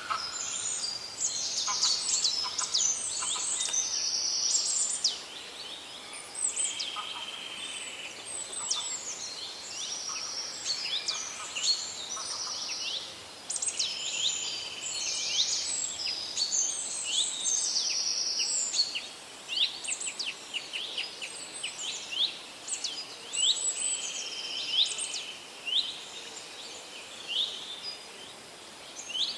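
Several forest birds singing and calling at once: many quick, high-pitched sweeping notes and short trills overlap throughout.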